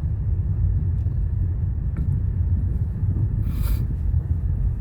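Steady low rumble of a car heard from inside the cabin, moving slowly in traffic, with a short hiss about three and a half seconds in.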